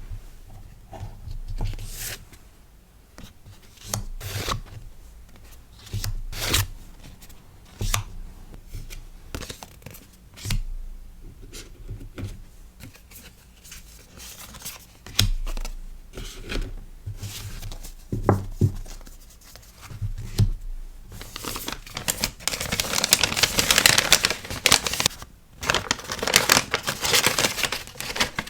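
Hands handling paper and plastic packaging while packing stickers: scattered rustles, taps and slides, then a long stretch of loud continuous crinkling near the end.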